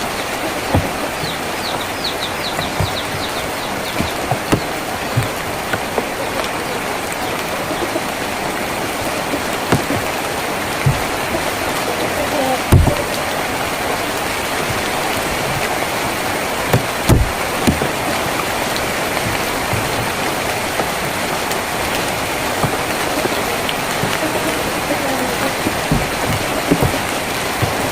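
Steady rain falling on a tin roof, with scattered heavier drops landing as dull knocks every second or two. A brief run of high chirps sounds about a second in.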